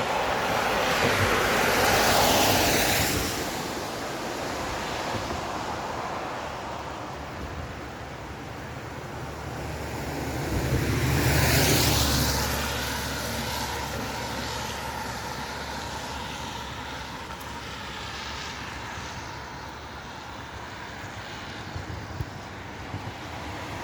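Road traffic passing: one vehicle goes by about two seconds in and a second, heavier one with a deep engine rumble about twelve seconds in, each swelling and fading over a steady background hiss.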